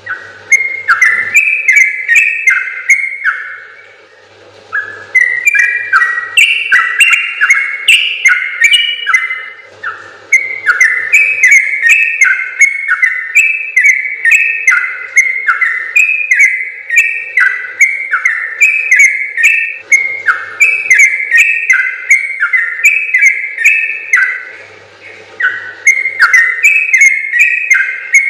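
Yellow-vented bulbul (trucukan) singing its long, rapid song: fast runs of short, bubbly, rising-and-falling whistled notes with only brief breaks, about 4 s, 10 s and 25 s in.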